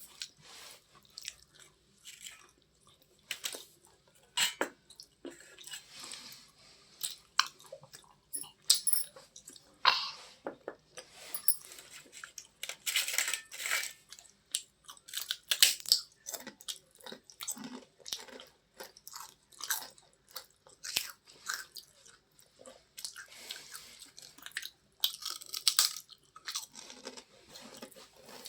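Close-miked biting and chewing of hard, crunchy white chips: irregular sharp crunches and mouth sounds, coming thickest in two spells, near the middle and again near the end.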